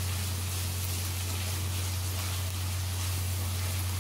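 Chicken masala sizzling in a wok on full flame while it is stirred with a silicone spatula, its liquid cooking off: a steady hiss, with a steady low hum underneath.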